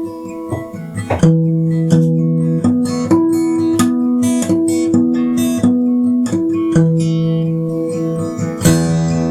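Acoustic guitar playing a slow instrumental melody: single plucked notes ring on over held bass notes, with a strummed chord about a second in, another near seven seconds and another near the end.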